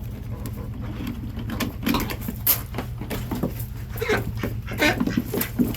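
Ducks calling with short, scattered quacks that grow busier after about two seconds, over a steady low hum.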